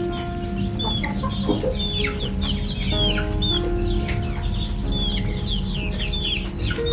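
Chickens peeping and clucking: many short, high chirps that fall in pitch, over soft background music with held notes.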